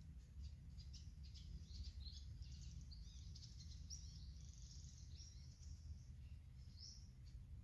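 Faint bird song: a run of rapid high chirps and twittering notes that stops about seven seconds in, over a steady low rumble.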